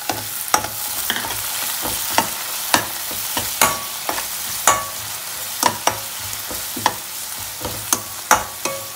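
Chopped onions, green chillies and ginger sizzling in an oiled kadai just doused with lemon juice, while a steel spatula stirs and scrapes them, knocking sharply against the pan at irregular moments, roughly every half second.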